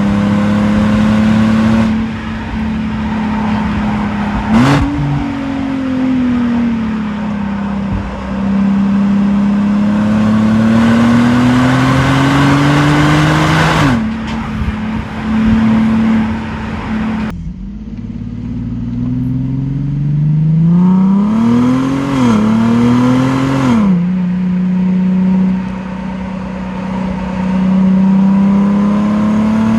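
Infiniti G37's 3.7-litre V6 engine and exhaust, fitted with resonated high-flow cats, heard while driving. The revs repeatedly climb and ease off, with a brief drop about halfway through and a quick run of rising revs a few seconds later.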